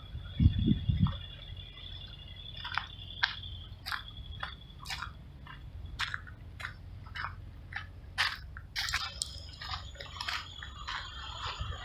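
Footsteps crunching on dry ground and brush, about two steps a second, over a steady low rumble. A loud low thump on the microphone comes about half a second in, and a faint steady high-pitched tone runs underneath.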